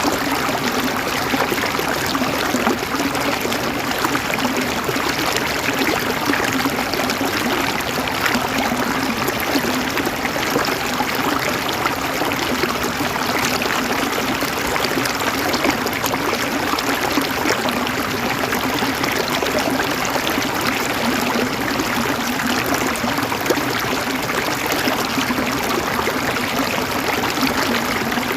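River water running and gurgling over rocks, a steady rushing with no pauses.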